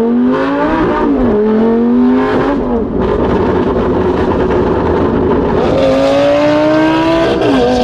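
Lamborghini Gallardo Super Trofeo Stradale's V10 on a straight exhaust, accelerating hard. The revs climb and drop back sharply with each quick upshift, several times over.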